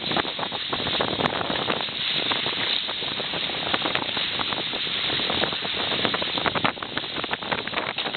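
Wind buffeting the microphone over the steady rush of water and spray from a sailing catamaran under way in a fresh breeze, with constant crackling gusts.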